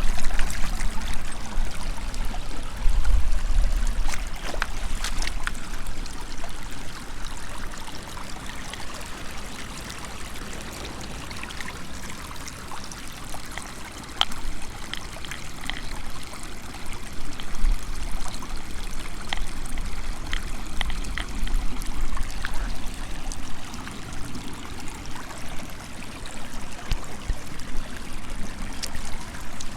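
Water running steadily in a river or stream, with low rumbles on the microphone near the start and again about eighteen seconds in.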